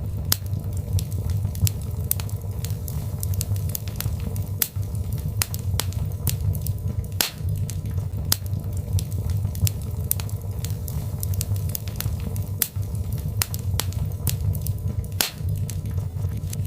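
Birchwood fire burning in a fireplace: a steady low rumble of flame with irregular sharp crackles and pops, several a second, a few of them louder.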